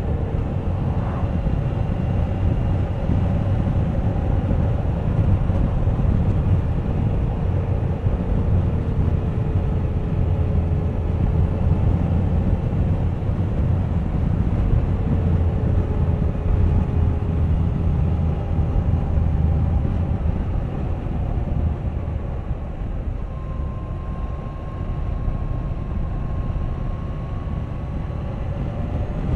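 Suzuki GSX1250FA motorcycle riding on the road: its inline-four engine runs under a heavy, steady rush of wind and road noise, the engine note drifting slowly up and down with speed.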